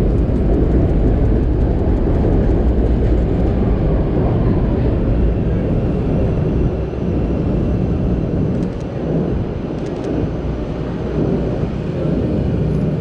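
Elevated commuter train passing close by on the Chicago 'L': a loud, steady rumble that eases slightly about halfway through, with faint rapid ticks in the first few seconds.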